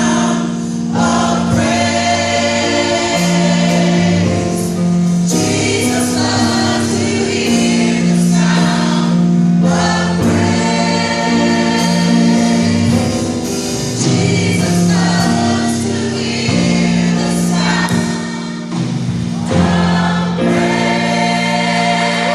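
Gospel choir singing with instrumental accompaniment and a steady bass line underneath.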